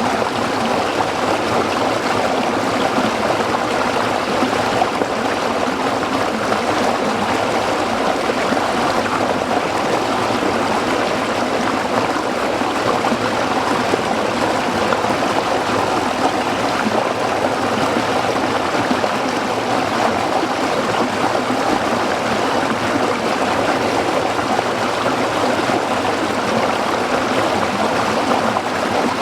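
Small stream flowing and splashing over rocks, a steady babble.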